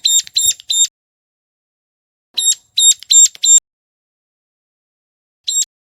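Ciblek gunung calling: shrill, sharp notes repeated about four a second in short bursts, about four notes at the start, four more about two and a half seconds in, and a single note near the end.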